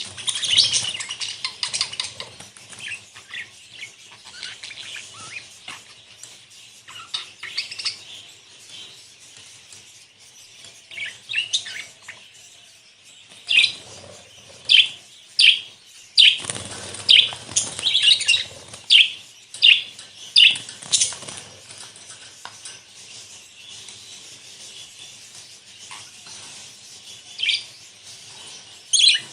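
A flock of budgerigars chattering and chirping continuously, with a run of loud, sharp chirps in the middle.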